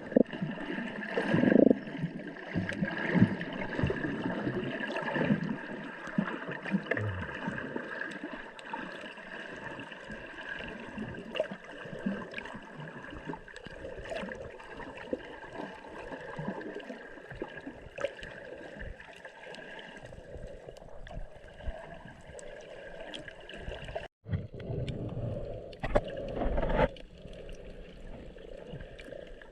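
Water sloshing and gurgling, with a steady hum running under it; the sound breaks off for a moment about 24 seconds in.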